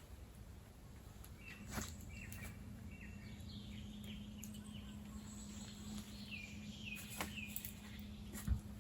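Small birds chirping, with a run of short notes and a repeated falling phrase. A few sharp knocks sound, the loudest near the end, over a low steady hum.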